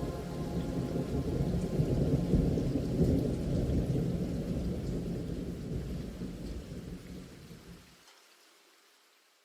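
Thunder rumbling over steady rain, swelling about two seconds in and then slowly fading out to nothing near the end.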